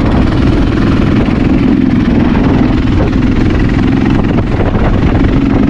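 Honda XR650L's single-cylinder four-stroke engine running steadily, with wind buffeting the microphone.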